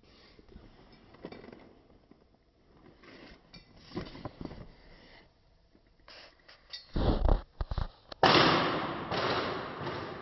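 Packaging being handled during an unboxing: faint rustling and small clicks, a few heavy knocks about seven seconds in, then a loud rustle lasting a couple of seconds.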